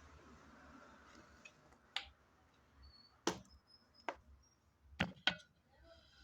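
Handling of tools and parts on an electronics workbench: about five sharp clicks and knocks, two of them close together about five seconds in, over faint room hiss.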